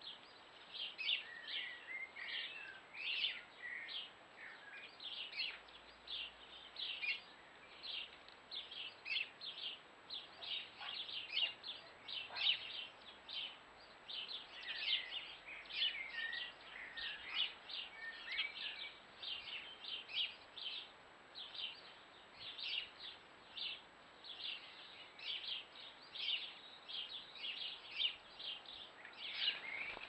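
Small garden birds chirping continuously, with many short high calls overlapping at several a second.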